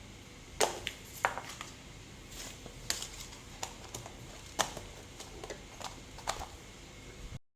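Scattered light knocks and clicks at uneven intervals, about a dozen in all, the sharpest about half a second and one and a quarter seconds in. It cuts off suddenly to silence near the end.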